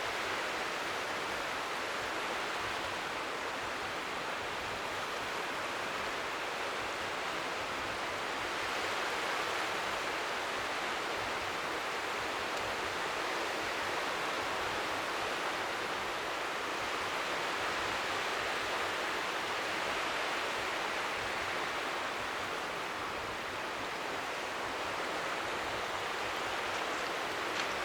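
Strong wind with faint waves lapping at the shore, blending into a steady, even hiss like white noise.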